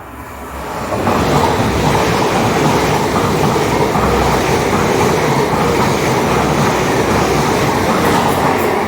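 Class 800 Intercity Express Train passing close through the station at speed. The rolling noise of wheels, carriages and underfloor engines builds over the first second, holds steady and loud as the train goes by, and starts to fade near the end.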